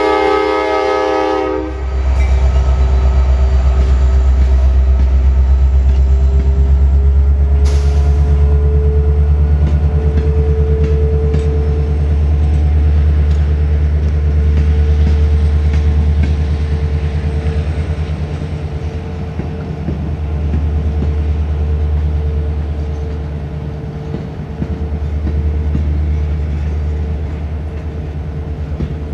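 Freight cars of a CSX manifest train rolling past in a loud, steady rumble, with rhythmic clickety-clack of wheels over the rail joints. A locomotive horn is still sounding at the start and stops about a second and a half in.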